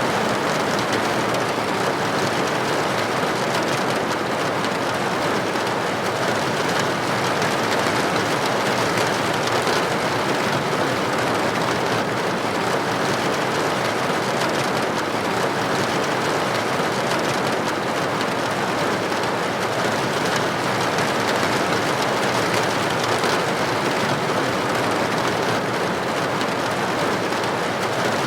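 Rain striking a building window, a steady even wash of noise with no single drops or breaks standing out.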